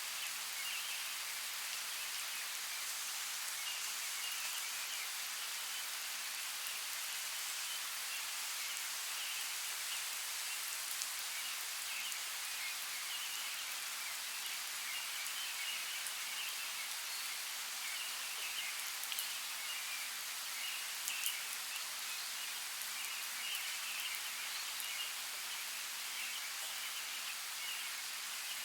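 Steady rain: an even, high hiss of falling rain with a few sharper drop ticks now and then.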